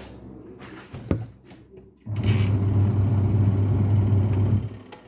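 Semi-automatic washing machine's wash motor switched on to test a newly replaced gearbox: a click about a second in, then a loud steady electric hum for about two and a half seconds that cuts off near the end.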